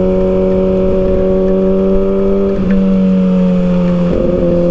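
Kawasaki ZX-6R's inline-four engine running at steady, fairly high revs under way, with low wind rumble. The engine note dips briefly twice, about two and a half and four seconds in.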